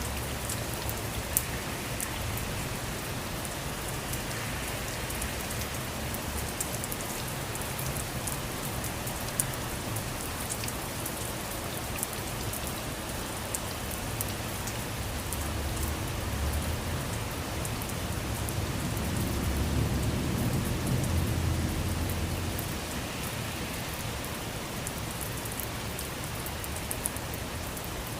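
Steady rainfall, with individual drops ticking on a surface. A low rumble of thunder builds up in the middle, peaks and fades away again.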